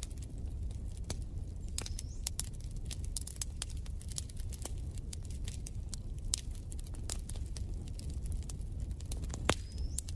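Wood fire crackling in a fireplace: irregular snaps and pops over a steady low rumble, with one sharper pop about nine and a half seconds in.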